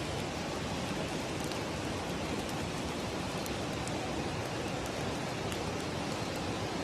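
Steady rush of falling water from a waterfall, an even noise with a few faint ticks in it.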